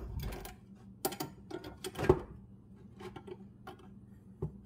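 Irregular metal clicks and light clanks of pliers gripping and tugging at a steel spring on a riding mower's deck height lever, with the sharpest knocks about one and two seconds in.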